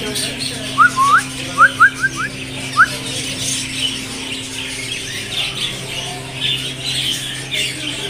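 Caged birds chattering and squawking, with a quick run of six short, rising, whistled chirps in the first three seconds.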